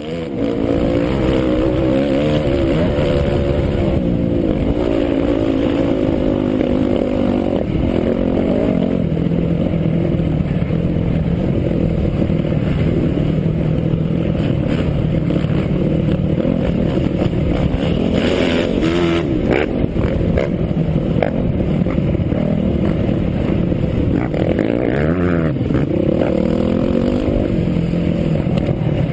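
Several dirt bike engines running at once, idling and blipping with wavering pitch, with a few louder revs rising and falling about two-thirds of the way through.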